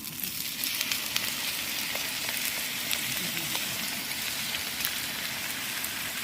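Chorizo, vegetables and noodles frying in a pan on a camp stove, a dense sizzle that swells about a second in as bolognese sauce is added, with small pops and spits throughout.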